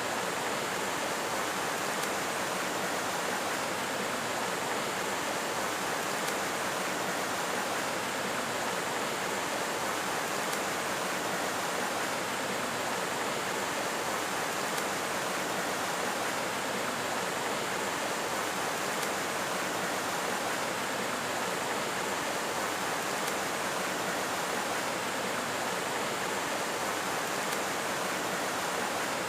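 Steady, even rushing noise like running water.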